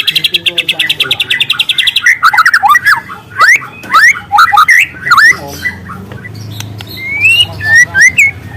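Young white-rumped shama singing. It opens with a fast, even trill of about two seconds (the long canary-like 'shot' that shama keepers prize), then breaks into a run of varied rising, sweeping whistles.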